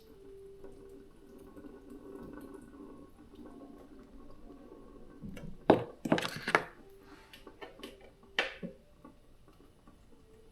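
Kitchen cookware and utensils clattering: a quick cluster of sharp knocks about halfway through and one more knock near the end, over a faint background hum.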